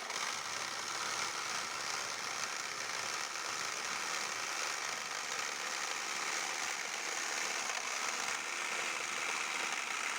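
Air compressor running steadily.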